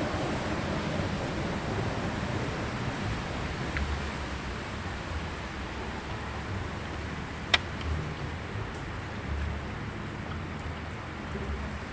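Steady outdoor background rumble and hiss, like wind and distant traffic, broken by one sharp click about seven and a half seconds in.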